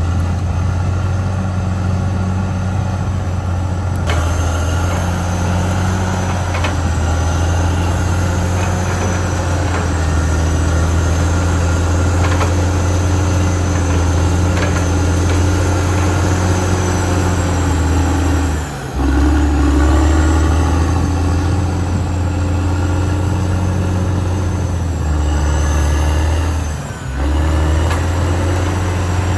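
Caterpillar D6R XL bulldozer's diesel engine running steadily, with a thin high whine above it. The sound drops briefly twice, once about two-thirds of the way in and once near the end.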